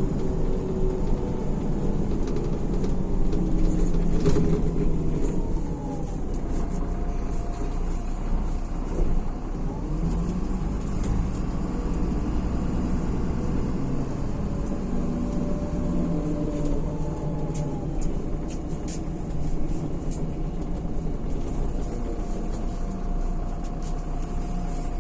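MAZ-103 city bus heard from inside while riding: its diesel engine and drivetrain run with a pitch that slowly rises and falls as the bus speeds up and slows, over a steady road rumble. It is loudest a few seconds in, then eases off.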